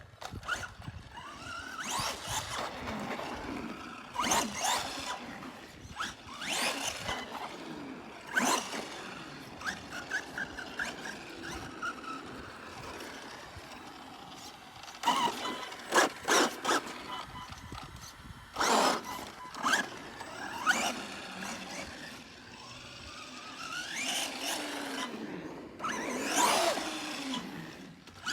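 Arrma Gorgon RC monster truck with an upgraded electric motor and speed controller on a 3S battery, its motor whine rising and falling in pitch as it accelerates and slows. Short bursts of tyre squeal and scrubbing on pavement recur throughout.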